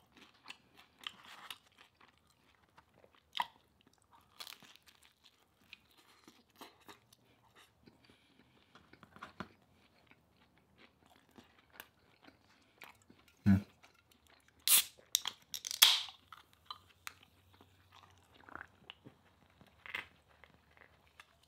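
A man chewing and crunching food close to the microphone, with small wet mouth clicks throughout and a few louder crunches about two-thirds of the way in. A dull thump comes just before the louder crunches.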